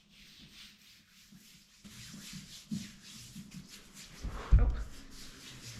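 Hands rubbing sports lotion into bare skin in repeated brushing strokes. About four and a half seconds in there is a heavy thump from a near trip.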